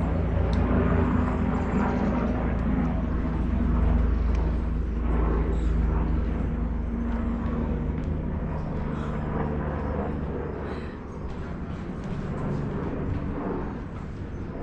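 A low engine drone with a steady hum, which fades after about eight seconds.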